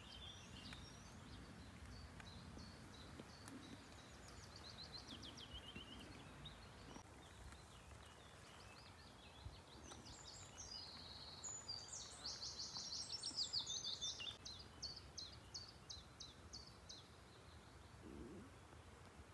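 Songbirds singing faintly over a quiet outdoor background, with a louder run of quick repeated notes in the middle.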